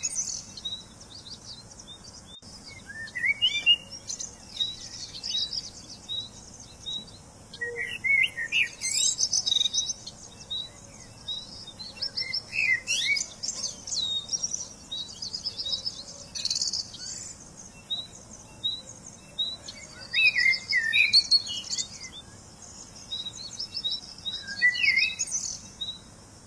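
Several birds singing: a steady run of short, high chirps, with bursts of higher trilling and a short sweeping phrase that comes back every few seconds.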